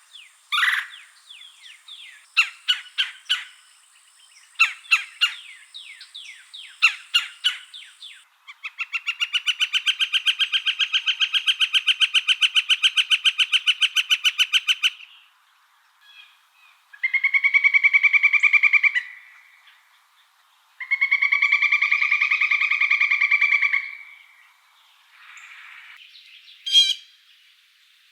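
Bird calls and songs in sequence: a run of short sharp chirps for the first several seconds, then a long rapid trill lasting about six seconds, then two shorter buzzy trills, with a faint steady high insect-like tone under the opening chirps.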